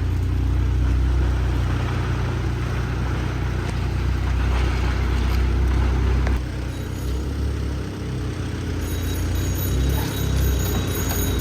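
Engine and road noise of a moving Volkswagen Polo GT 1.2 TSI, heard from inside the cabin as a steady low rumble that eases slightly about six seconds in.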